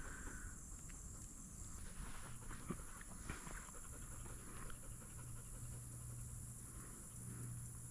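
A retrieving dog panting faintly, with a steady low hum underneath from a couple of seconds in.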